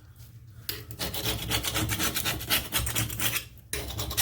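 Rapid, repeated scraping strokes of something hard rubbing against a surface, starting just under a second in and breaking off briefly near the end before starting again.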